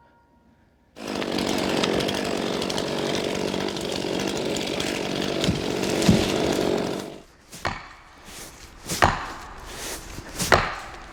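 Chainsaw cutting into a tree for about six seconds after the felling warning, then stopping; three sharp cracks follow.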